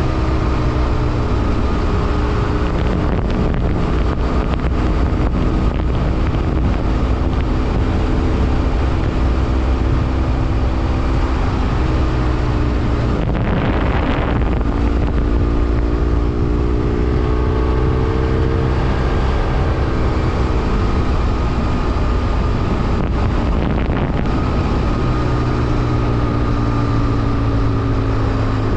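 BMW F800R motorcycle's parallel-twin engine running at a steady cruise under wind noise on the microphone, its pitch drifting slightly up and down with the throttle. About halfway through, a brief rush of noise passes.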